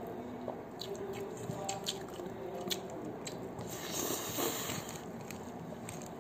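A man chewing instant noodles with his mouth open, wet smacking and squishing with small clicks. About four seconds in comes a louder slurp as he sucks food off his fingers.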